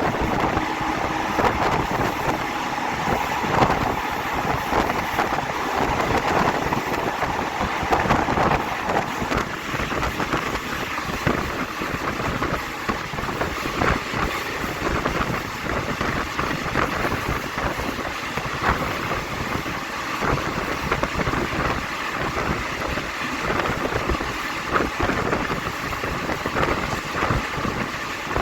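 Passenger train running steadily, heard from aboard: a continuous rumble and rattle of the carriage on the rails, dotted with many short clicks and knocks, with some wind on the microphone.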